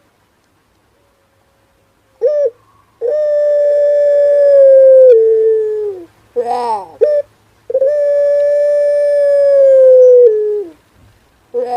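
Male puter pelung barbary dove cooing. A short note comes first, then a long held coo of about three seconds that drops in pitch at its end. A quick falling call follows, then a second long held coo of about three seconds.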